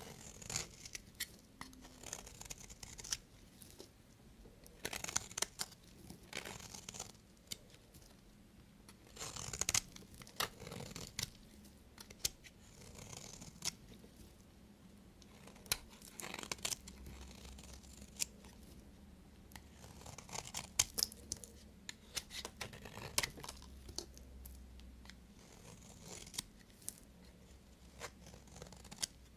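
A knife cutting through bars of soap: irregular crisp crackles and scrapes, a few strokes at a time with short gaps between.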